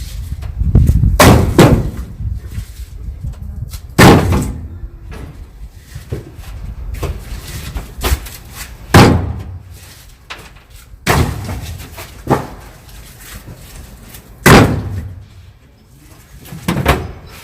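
About eight heavy slams or knocks at irregular intervals, each loud and sudden with a short ringing tail.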